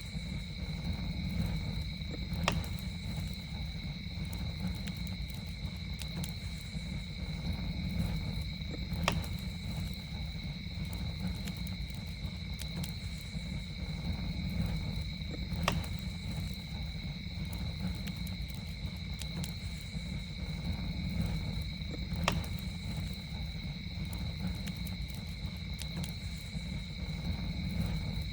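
Campfire burning with a steady low rumble and occasional sharp crackling pops, a few of them louder, about every six or seven seconds. Over it runs a steady, unbroken insect trill on two high pitches, like crickets.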